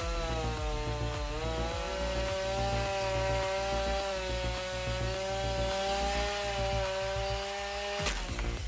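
Small two-stroke engine, most likely a chainsaw, running at high revs with a steady whine that sags slightly in pitch now and then, as under load in a cut. It cuts off abruptly near the end, giving way to a different clattering sound.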